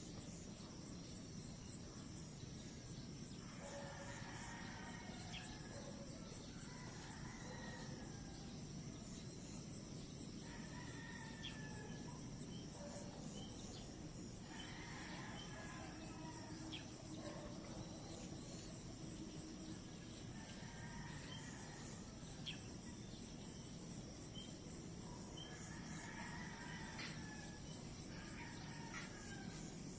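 Roosters crowing, faint, about six times, over a steady background of insects and outdoor hiss.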